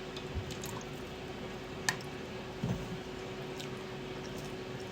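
Faint kitchen background: a steady low hum with a few light clicks, the sharpest about two seconds in, and one soft knock a little later.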